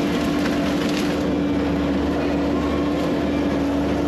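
Diesel engine of heavy earth-moving equipment running steadily under work, with an even drone.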